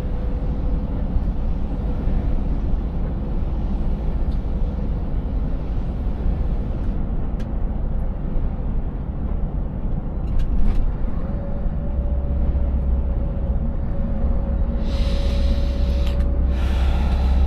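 Scania 590S V8 truck engine running steadily under way, a low rumble with a steady tone that rises slightly about two-thirds of the way through. A few short knocks come just before that, and two short bursts of hiss near the end.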